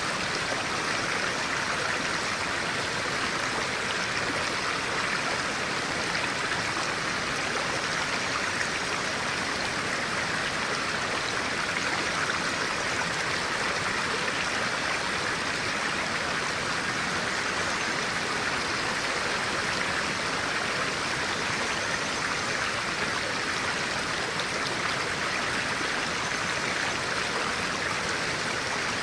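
A stream of clear water running over rocks, a steady rushing and burbling with no change.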